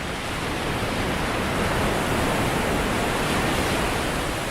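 Ocean surf washing onto a shoreline: a steady rushing noise that swells about a second in and eases slightly near the end.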